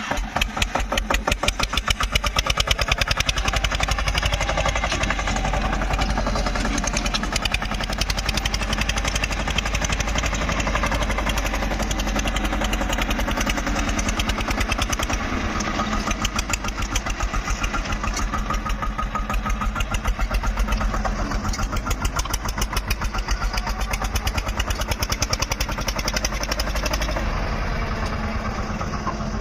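Tractor diesel engine running steadily with an even, rapid pulsing beat.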